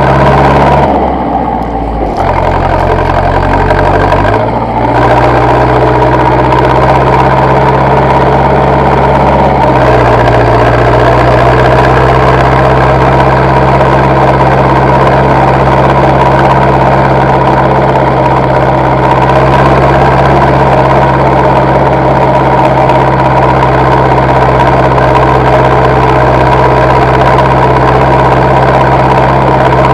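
Zetor tractor diesel engine running. Its speed dips in the first couple of seconds, then steps back up in two stages, about four and ten seconds in, and holds steady after that.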